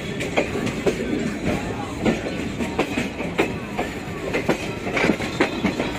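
Wheels of a moving passenger train clattering over rail joints and points, heard from inside the coach at an open barred window: irregular knocks about twice a second over a steady rumble, with some faint wheel squeal.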